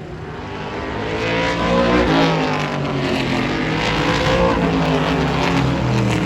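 Super trucks racing past: several engines at high revs grow louder over the first two seconds, their pitch rising and then dropping as they go by, and a second pitch swell follows a couple of seconds later as more trucks pass.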